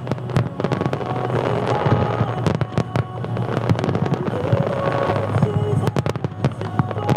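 Fireworks display: aerial shells bursting in a rapid, irregular string of bangs and crackles, several close together, over held notes of music.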